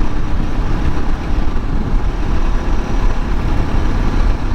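Suzuki DR650's single-cylinder engine running steadily under way, mixed with a steady rush of riding wind on the microphone.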